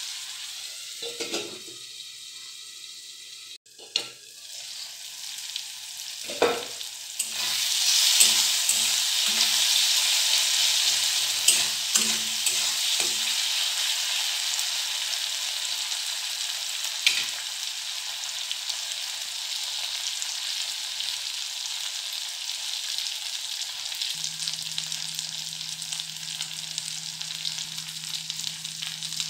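Onion-tomato masala sizzling in hot oil in a metal kadhai. A steel spatula scrapes and knocks against the pan in the first half, and the sizzle gets louder from about seven seconds in.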